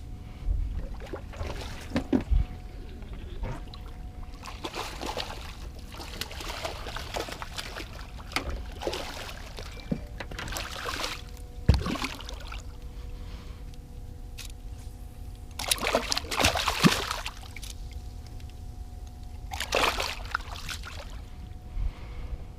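Water splashing and trickling around a small fishing boat, with a few sharp knocks and thumps, over a faint steady hum.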